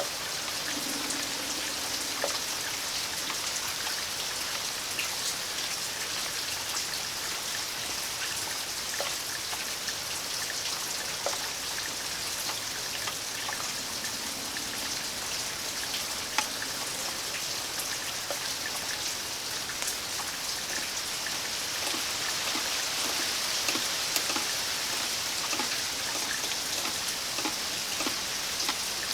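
Steady rain falling, an even hiss with many individual drops ticking close by and a few sharper drips.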